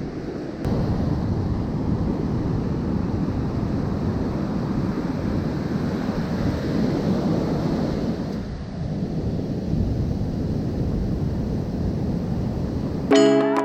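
Ocean surf with wind buffeting the microphone: a steady rushing that steps up in level about half a second in. Music cuts in just before the end.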